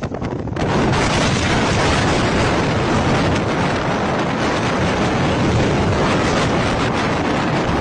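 Strong storm wind rushing and buffeting over the microphone, a loud, steady, dense rushing noise with a rumbling low end.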